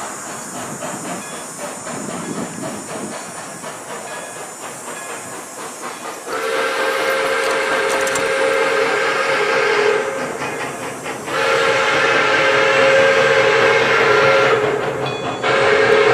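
Steam whistle of Pere Marquette 1225, a steam locomotive, blowing a chord in two long blasts starting about six seconds in, with a third beginning near the end. Before the whistle, the steady hiss and rhythmic running sound of the moving train.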